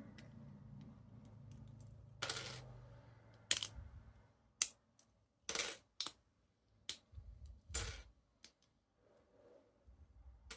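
Lego plastic pieces clicking and rattling as the model is handled: about a dozen irregular sharp clicks and short rattles, starting about two seconds in.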